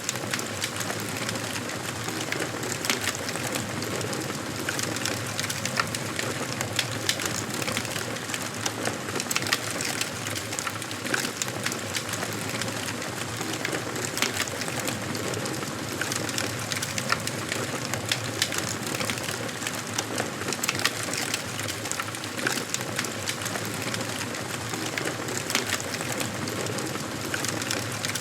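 Wood fire burning in a fireplace: a steady hiss with frequent small, sharp crackles and pops.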